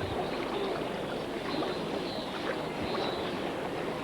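Water splashing and churning as a herd of wildebeest swims across a lake, with many overlapping calls from adults and calves.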